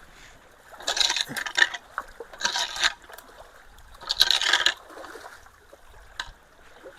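Three short bursts of splashing and scraping in creek water, each lasting about half a second to a second, between about one and five seconds in, over a faint steady flow of water.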